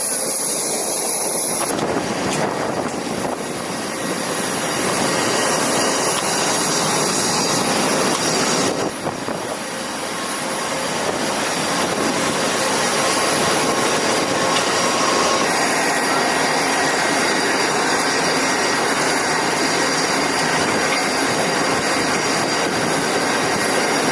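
Steady loud rushing noise of machinery or engines, with abrupt changes about two and nine seconds in.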